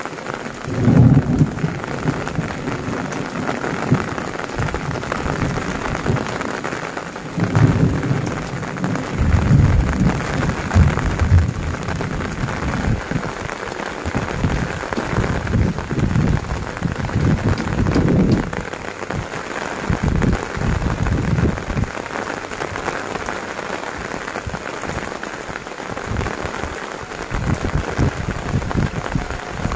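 Heavy rain falling on clay-tile roofs and dripping from the eaves, a steady hiss, with deep low rumbles coming and going through it, strongest in the first half.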